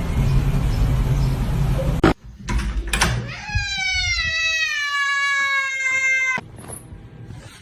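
A cat's long, drawn-out meow, about three seconds, slowly falling in pitch. Before it, a steady rumbling noise cuts off about two seconds in.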